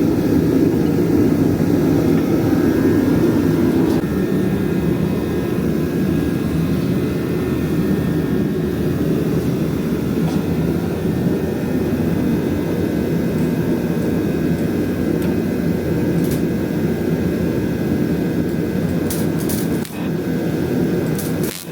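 Power sander running with a steady whir, sanding bodywork smooth with 150-grit paper. It dips briefly twice near the end.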